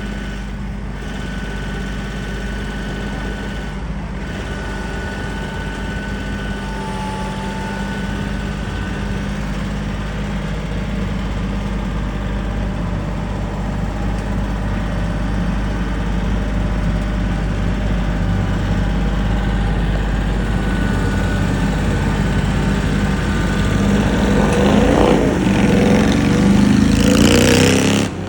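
A vehicle engine running steadily. It grows louder and rises in pitch over the last few seconds, then cuts off abruptly.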